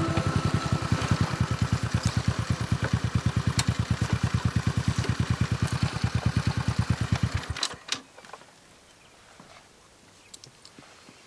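Small engine running at idle with an even, rapid low pulse, then shut off suddenly about seven and a half seconds in. A few faint clicks follow.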